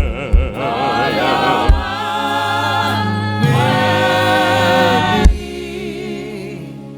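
Gospel singing by voices with musical accompaniment and a few low drum hits. A long held chord ends with a hit a little past five seconds, then the music dies away.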